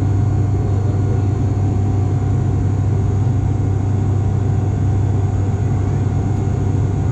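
Cabin drone of an ATR 42-500 in flight: its turboprop engines and six-blade propellers make a steady deep hum, with a fainter steady higher tone above it.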